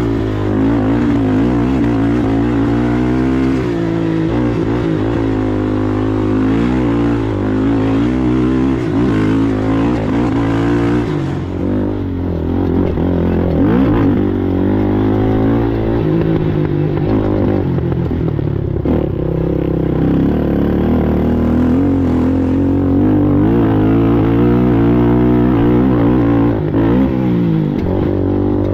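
Race ATV engine running hard, its pitch rising and falling over and over as it revs up, shifts and backs off.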